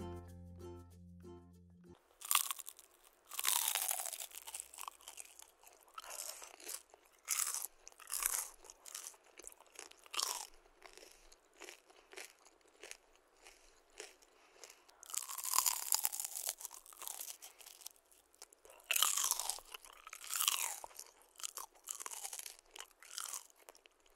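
Crisp deep-fried Korean rice cakes (tteok) being bitten and chewed close to the microphone: repeated bursts of crunching with short pauses between bites, starting about two seconds in after light background music ends.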